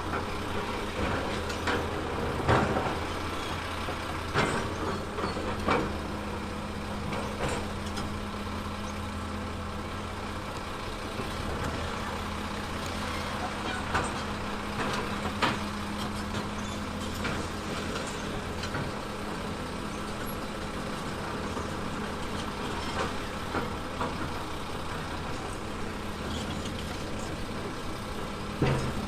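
Diesel engine of heavy earthmoving equipment running steadily, with scattered sharp knocks, the loudest about two and a half seconds in.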